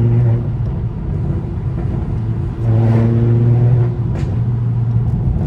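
Single-turbo BMW 335i's N54 inline-six exhaust droning at a steady pitch while cruising, swelling louder twice under throttle, near the start and about three seconds in. A faint exhaust burble follows the second swell as the throttle lifts, typical of the stock tune.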